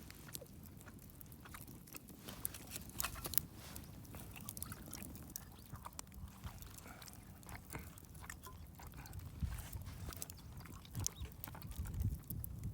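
A person eating rice and curry: chewing, with many small scattered clicks and taps.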